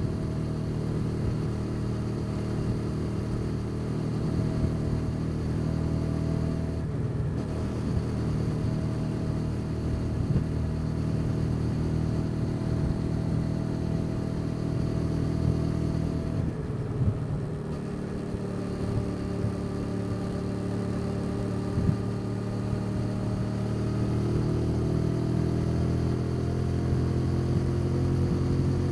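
Motorcycle engine running under way, heard raw from the bike. It eases off briefly twice, about a quarter of the way in and just past halfway, then its pitch climbs slowly as it pulls through the rest.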